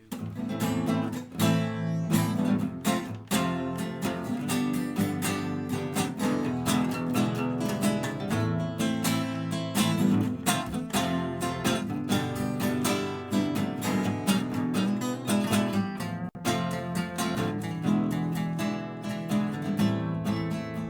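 Acoustic guitar strummed in a steady rhythm, an instrumental passage of a live song without singing.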